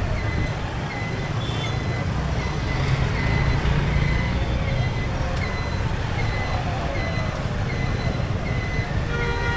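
Steady low rumble of a moving motorcycle in road traffic, with a short high beep repeating about once or twice a second. A horn sounds briefly near the end.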